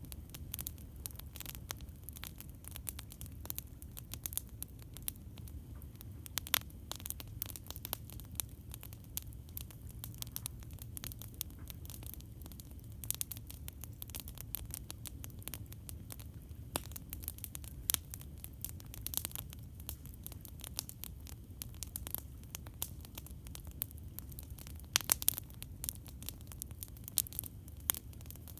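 Campfire crackling: burning wood snapping and popping in irregular clicks, with a few louder pops scattered through, over a steady low rumble.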